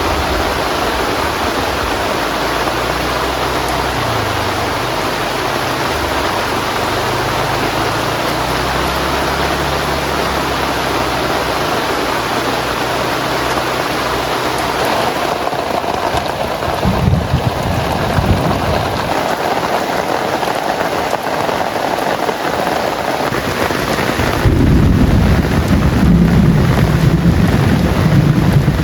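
Heavy rain falling steadily on a tent canopy, with low rolls of thunder; a louder rumble of thunder comes in the last few seconds.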